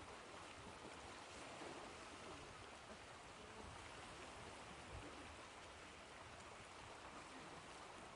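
Faint, steady wash of ocean waves, an even hiss of water with no distinct breaking crash.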